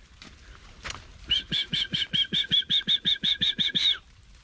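A bird calling: a rapid run of about sixteen short, evenly spaced notes, about six a second, lasting nearly three seconds and then stopping.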